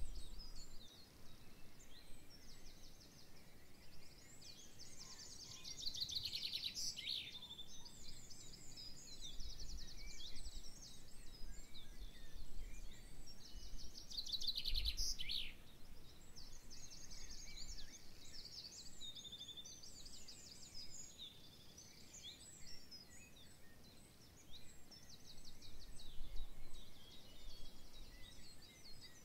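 Several songbirds singing over one another, with fast trilled songs and chirps. A faint low rumble comes and goes underneath.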